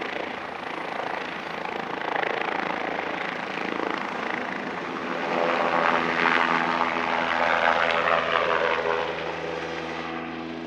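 Bell 407 helicopter's single turboshaft engine and four-blade rotor running at takeoff power. A steady turbine hum with rotor noise grows louder about halfway through.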